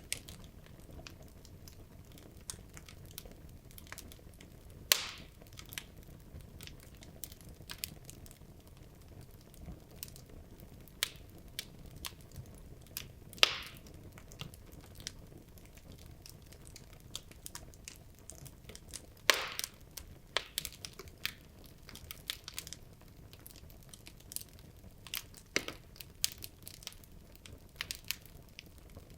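Wood logs burning in a fireplace, crackling with irregular small snaps and occasional louder pops over a low steady hiss of the flames.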